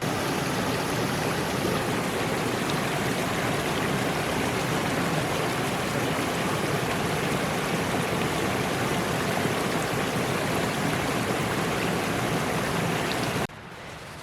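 Rushing mountain creek: a steady, loud wash of flowing water that cuts off suddenly near the end.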